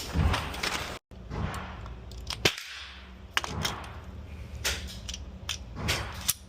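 Gunshots from other shooters at the range: a string of sharp, irregularly spaced shots, about one a second.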